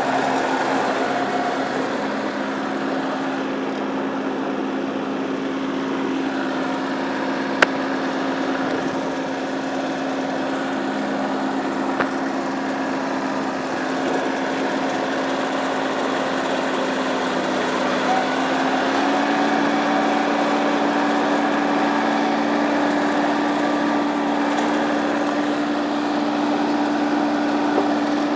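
Massey Ferguson tractor engine running steadily; its speed steps up a little about two-thirds of the way through. Two brief sharp clicks stand out, one about a quarter of the way in.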